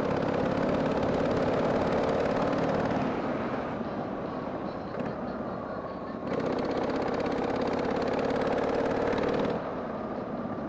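Harley-Davidson Sportster 883's air-cooled V-twin engine running while riding, with wind noise. It pulls harder for the first few seconds, eases off about 4 s in, pulls again from about 6 s and eases off near the end.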